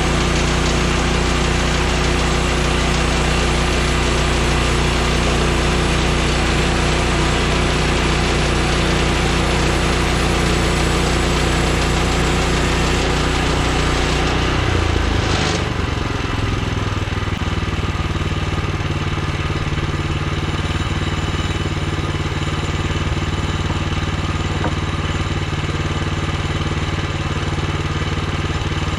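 Woodland Mills HM126 portable bandsaw mill's gas engine running steadily. About halfway through, the engine note shifts and settles into a slightly quieter, steady run.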